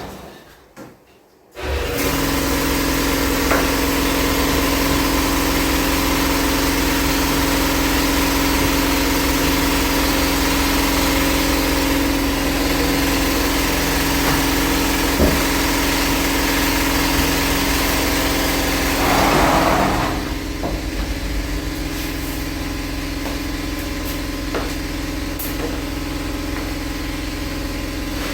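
Air compressor starting up about two seconds in and running steadily, with a brief louder rush of noise near two-thirds of the way through.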